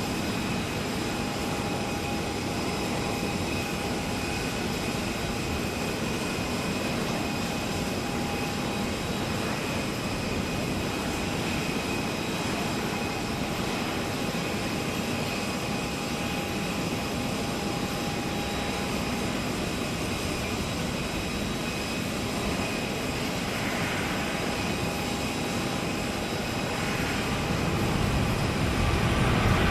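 Jet airliner engines running steadily, with a few faint held tones over an even rush, getting louder near the end.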